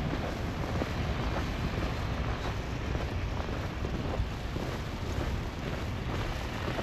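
Strong wind blowing across the microphone in a snowstorm, a steady low rumble, with faint regular crunches of footsteps in snow about twice a second.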